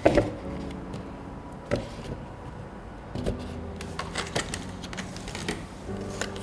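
Food-preparation handling sounds: a sharp knock at the start, two more knocks spaced over the next few seconds, then a run of lighter clicks and taps, over a faint steady hum.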